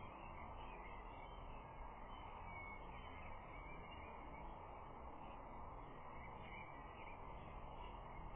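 Steady outdoor background noise picked up by a nest camera's low-quality microphone, with faint, scattered calls of distant birds.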